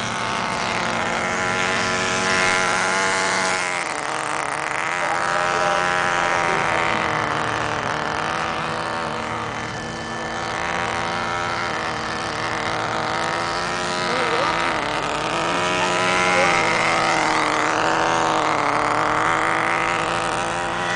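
Nine Eagles Solo Pro V2 4-channel RC helicopter in flight, its motor and rotor whining steadily, the pitch dropping and climbing again several times as the throttle changes.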